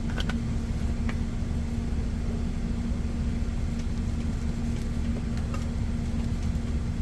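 Semi truck's engine idling: a steady low rumble with a constant hum, and a few faint clicks.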